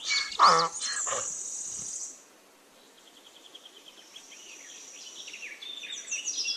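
A donkey braying, its call ending within the first second. Birds chirp and a high steady whine runs through the rest, with a brief drop to near silence a little after two seconds.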